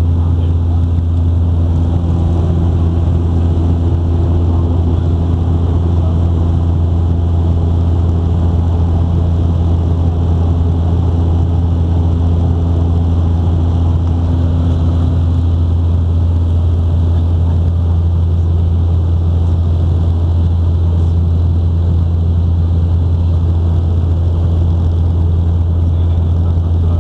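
Steady, loud drone of turboprop engines and propellers heard inside the cabin of a Porter Airlines Bombardier Dash 8 Q400, dominated by a deep constant hum. A higher steady tone in the drone fades out about two-thirds of the way through.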